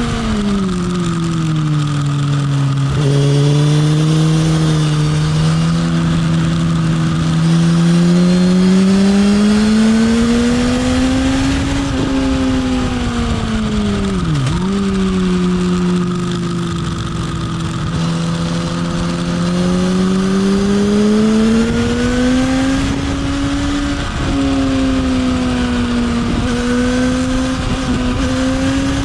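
Motorcycle engine running hard on a race track: the engine note drops sharply at the start, holds steady, climbs slowly, dips and recovers quickly about halfway through, then holds and climbs again, over a constant rush of noise.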